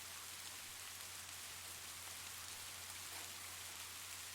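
Soft, steady rain: an even patter of raindrops with no single drop standing out.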